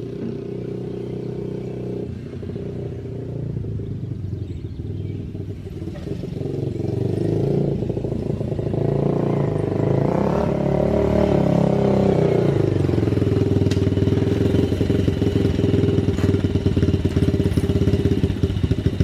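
Yamaha TT-R90 pit bike's small single-cylinder four-stroke engine running and growing louder. Its note rises and falls about halfway through, then settles into a steady idle near the end, now idling well after warming up on a short ride.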